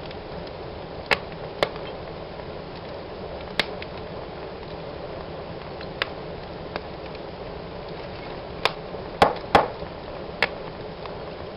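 Wood fire burning in a fireplace: a steady low rush of flames with sharp, irregular crackles and pops, about nine of them, the loudest bunched together near the end.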